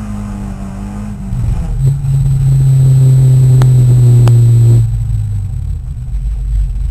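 Peugeot 306 racing car's engine heard from inside the cabin, pulling hard. About two seconds in its note drops in pitch and gets louder, holds flat out for about three seconds, then falls back as the throttle eases. Two sharp clicks come in the middle of the loud stretch.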